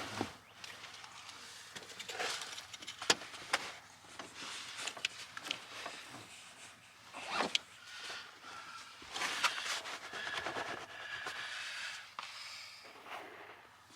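Irregular clicks, scrapes and rustling of gear being handled, with the sharpest click about three seconds in.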